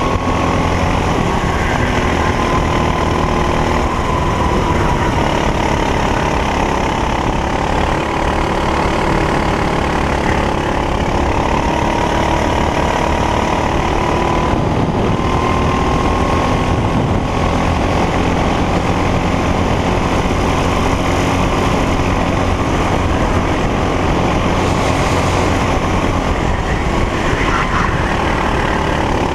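Racing kart engine running hard, its revs rising and falling gradually as the kart goes round the track.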